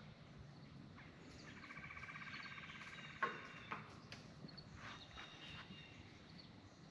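Faint birds chirping in quiet morning ambience, with a rapid trill lasting about two seconds early on and a couple of light knocks around three seconds in.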